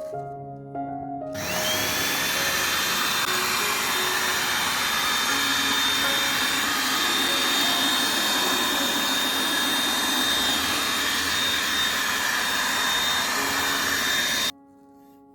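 Hair dryer switched on and running, a steady rush of blown air with a high motor whine that rises as it spins up and then holds one pitch; it cuts off abruptly shortly before the end.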